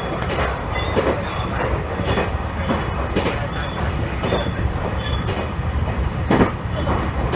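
Electric commuter train running along the line, a steady rumble of wheels on rail with irregular clicks and knocks as the wheels pass over rail joints, one of them louder about six seconds in.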